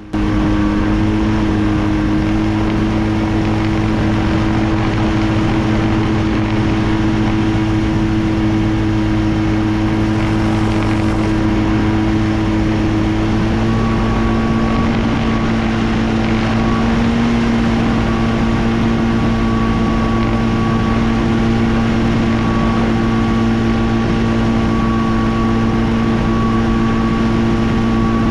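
Flightstar II ultralight's two-stroke Rotax 503 engine and propeller running at a steady power setting, heard from a camera mounted on the aircraft; the engine note shifts slightly about halfway through.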